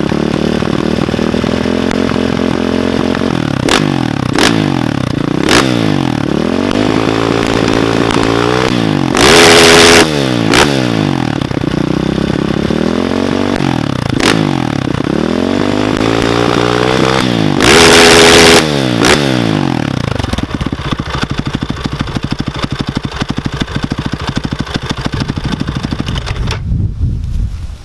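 KTM 525 single-cylinder four-stroke engine breathing through an Akrapovic exhaust, revved up and down repeatedly and twice held at high revs for about a second. It settles to idle for the last several seconds.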